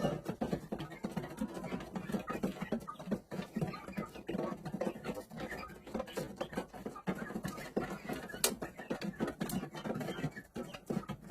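Irregular scratching and rustling, close by, with many small clicks and two sharper clicks near the end.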